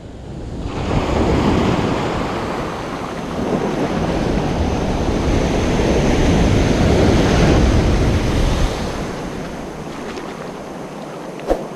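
Ocean surf washing onto a beach, a steady rushing noise that starts abruptly and swells twice before easing off. A short sharp tap sounds near the end.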